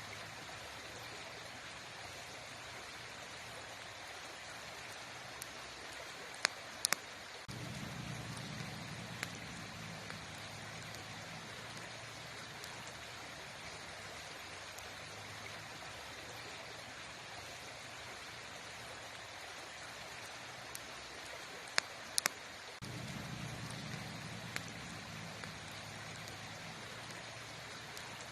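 Campfire burning: a steady crackling hiss with a few sharp pops, and twice a low rumble comes in suddenly and fades.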